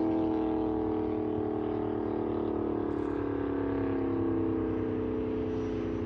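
Hemi V8 with a loud aftermarket exhaust idling high just after a start-up, its pitch slowly drifting down and the level easing as the idle settles.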